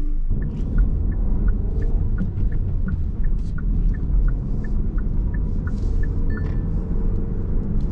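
Car cabin rumble in slow city traffic, with a steady ticking of about three clicks a second, typical of the turn-signal indicator.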